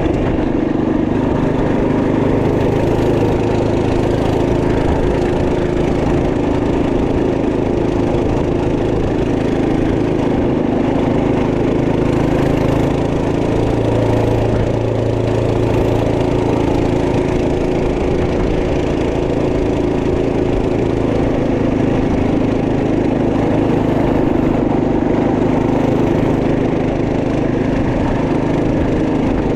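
Single-cylinder four-stroke 212cc engine of a Trail Master MB200 minibike running steadily under way, its pitch shifting only a little.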